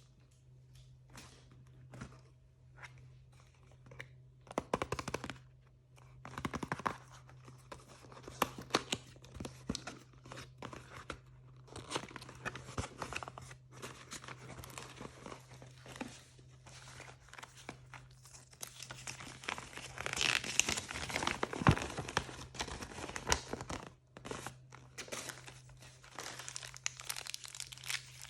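Blind-bag packaging handled and torn open, crinkling and crackling in irregular bursts, busiest and loudest about twenty seconds in.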